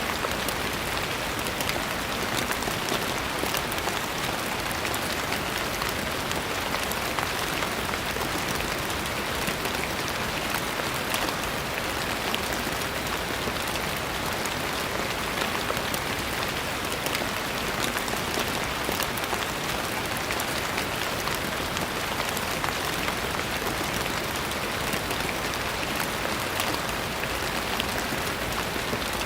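Steady rain falling, an even hiss of many drops with fine scattered patters.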